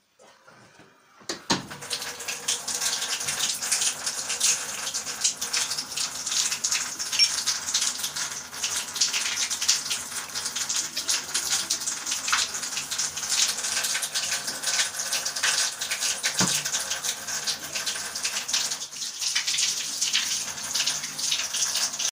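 Water running from a tap, starting suddenly about a second and a half in and then pouring steadily.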